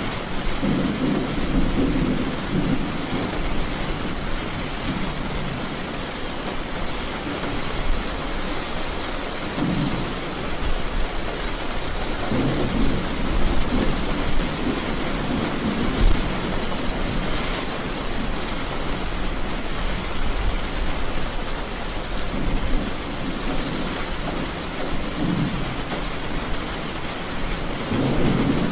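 Steady rain with low rolls of thunder that swell and fade several times: near the start, around the middle and near the end.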